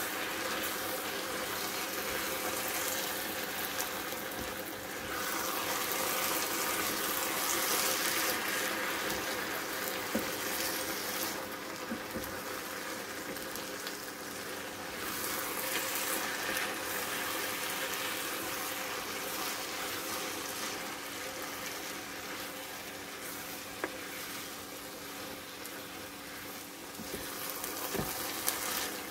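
Rice noodles and vegetables sizzling in a frying pan as they are tossed and stirred with two wooden spatulas, with a few light taps of wood against the pan.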